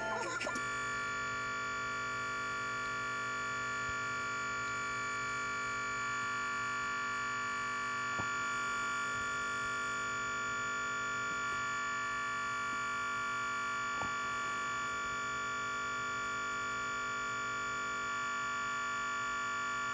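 Steady, unchanging buzz from a Surface Pro 3's speakers as it crashes to a blue screen: the sound card keeps looping a tiny fragment of the audio that was playing, and the buzz cuts off suddenly near the end.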